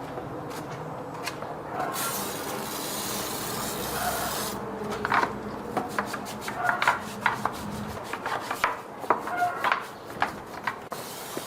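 Hand work on parts: rubbing and scraping with scattered clinks and knocks, and a hiss lasting a couple of seconds about two seconds in, with another brief hiss near the end.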